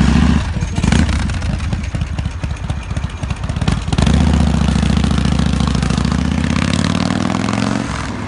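S&S 113-cubic-inch V-twin of a custom motorcycle, blipped twice at the start and running unevenly at low revs, then opening up about four seconds in and pulling away with its pitch slowly climbing.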